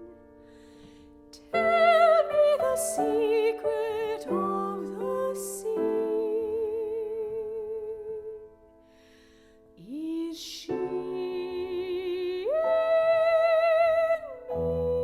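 Operatic soprano singing a contemporary art song with piano accompaniment, her voice carrying a wide vibrato. Her phrases are broken by audible breaths and a short pause about two-thirds through, and she holds a long high note near the end.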